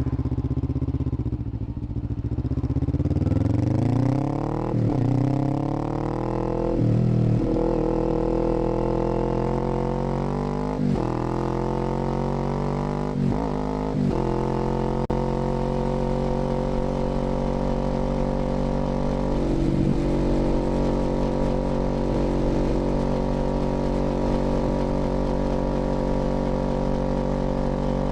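Kawasaki Z400's 399 cc parallel-twin engine under way. It climbs in pitch over the first several seconds with a few brief breaks at gear changes, then runs at a steady pitch while cruising.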